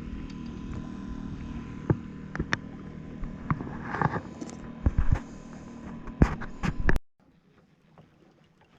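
Steady outdoor rumble of wind with a faint low hum, broken by scattered sharp knocks and clicks, cutting off abruptly about seven seconds in.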